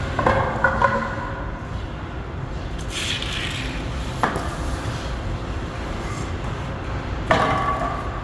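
A few sharp knocks that ring briefly over a steady low rumble: a cluster near the start, one about four seconds in and a louder one near the end.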